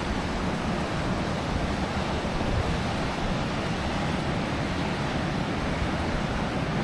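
Steady rushing outdoor noise with a strong low rumble and no distinct events.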